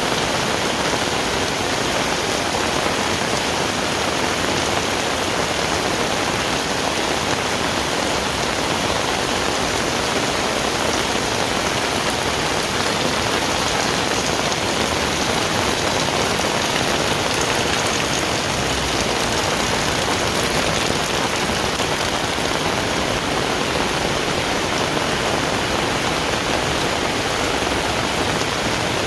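Heavy rain falling and pattering on surfaces: a dense, steady hiss that does not let up.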